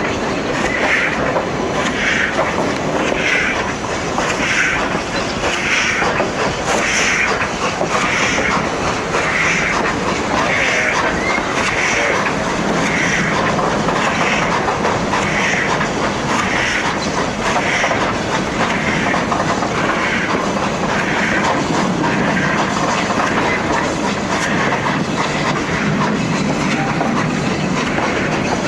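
Durango & Silverton narrow-gauge train running along the track: a steady rumble with a regular beat a little faster than once a second. The rumble grows heavier in the second half.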